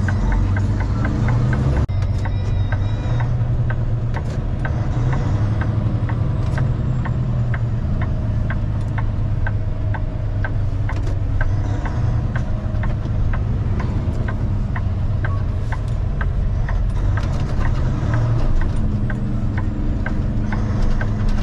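Semi truck's diesel engine running steadily, heard from inside the cab while driving. A light, regular ticking repeats about every half second over the drone.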